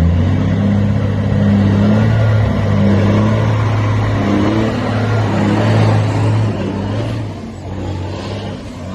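Heavy truck engine running hard with a deep, steady note, dying down about seven seconds in.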